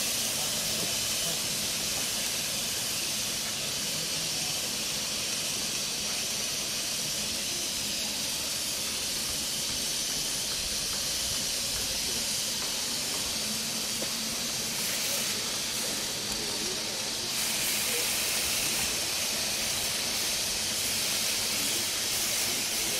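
Chicken satay skewers sizzling over a charcoal grill, a steady hiss.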